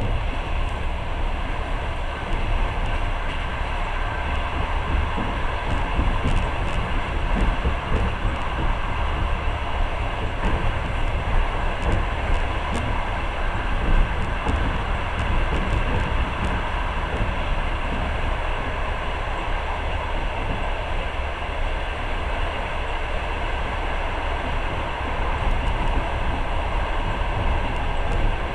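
Passenger train running at speed: a steady rumble from the moving carriage, with a few faint clicks.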